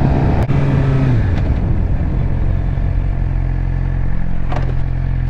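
Suzuki GSX-R600 inline-four engine running at steady revs while riding. Its note drops slightly about a second in and then holds level, with a sharp click near the start.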